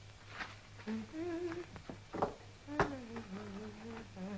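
A woman humming a slow tune, holding and sliding between notes, with a few sharp clicks. A steady low mains hum from the old film soundtrack runs underneath.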